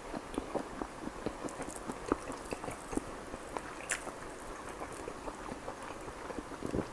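Close-up chewing of chicken kalmi kabab: a run of short, irregular wet mouth clicks, several a second.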